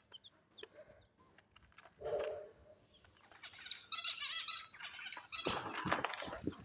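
Small pet birds chirping: a quick run of high chirps about four seconds in, followed by some rustling.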